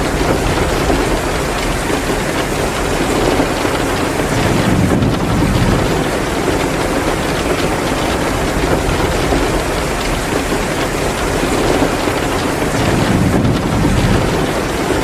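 Heavy rain pouring steadily, mixed with a wood fire crackling in a fireplace. A low rumble swells up twice, about five and about thirteen seconds in.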